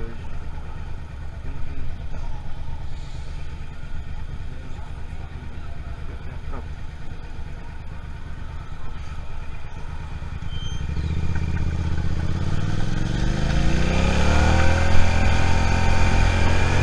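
Suzuki SV650's V-twin engine running at low revs, then from about eleven seconds in accelerating, its pitch rising and growing louder.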